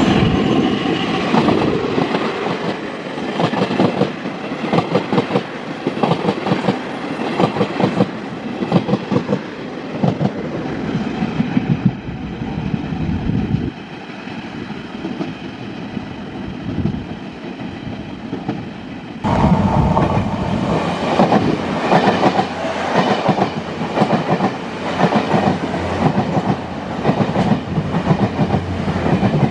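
Train passing at speed, its wheels clicking rapidly over the rail joints with a steady rumble. The sound eases off partway through, then comes back loud all at once about two-thirds of the way in.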